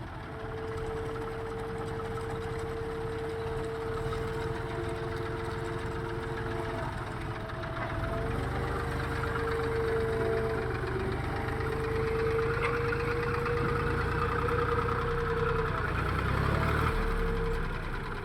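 Heavy diesel engine running with a steady whine over it. It grows louder and deeper about eight seconds in, as if taking more load, then drops back near the end.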